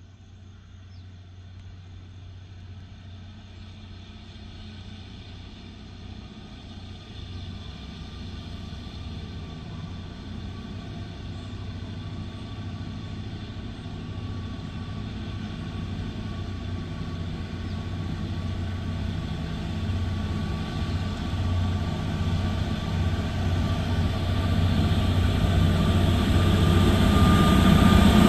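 Kalka–Shimla narrow-gauge train approaching, its steady low running hum and a thin high tone growing louder throughout.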